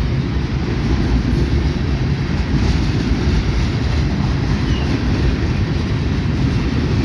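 Kansas City Southern freight train rolling past: a steady, loud rumble of wheels on rail.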